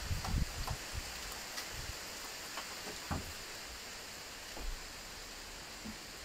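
Heavy rain falling steadily, a constant hiss with scattered drops ticking close by. A few low thumps on the microphone near the start and about three seconds in.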